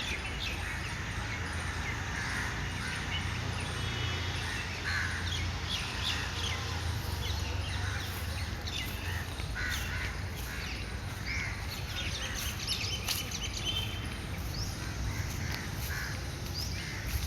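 Birds calling outdoors: many short calls and chirps scattered throughout, some crow-like caws among them, over a steady low rumble.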